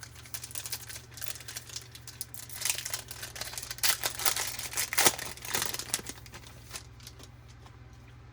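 Foil wrapper of a 2020 Topps Series 1 baseball card pack being torn open and crinkled, a dense run of crackles that is loudest about four to five seconds in and dies away near the end.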